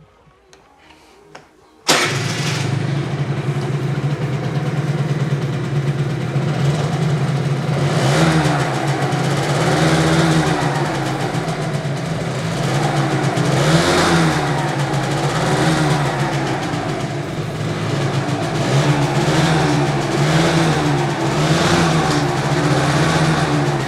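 A 50cc two-stroke scooter engine, a 2017 Aprilia SR50, starts suddenly about two seconds in and runs, revved up and down several times.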